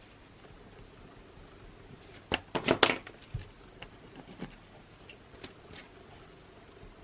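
Small objects handled on a study desk: a quick cluster of sharp clacks and knocks about two and a half seconds in, then a few scattered lighter clicks over faint steady room hiss.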